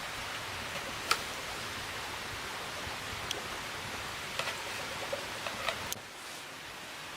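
A steady rushing hiss with several sharp clicks or knocks scattered through it. The hiss drops suddenly about six seconds in.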